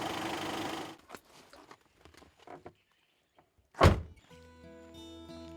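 Steady vehicle noise that cuts off suddenly about a second in, then faint scattered knocks and one loud thump about two-thirds of the way through. Soft background music with sustained tones comes in after the thump.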